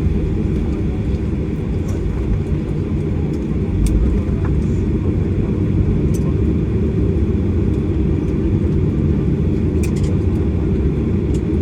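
Steady low rumble inside the cabin of a Boeing 737-800, from its engines and airframe, with a few faint clicks from cabin fittings.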